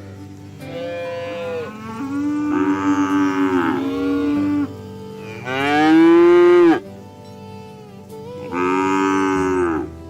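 Cattle mooing: four long calls, each bending down in pitch at its end, the loudest about six seconds in, over quiet background music.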